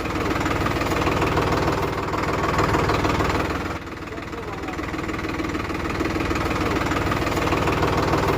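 Tractor engine running steadily with a rapid low chugging, dropping in level for a moment about four seconds in and then picking up again.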